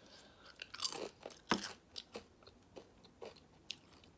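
Tortilla chip being bitten and chewed, a string of short crisp crunches, loudest around one to one and a half seconds in.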